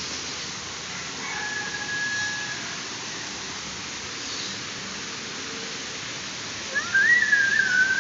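Birds calling: a short held note about a second in, then a louder wavering call near the end that rises, wavers and falls. A steady rushing noise runs beneath.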